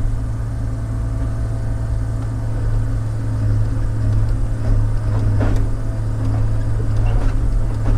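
Log loader's engine running steadily with a deep hum while logs are handled, with one sharp knock about five and a half seconds in.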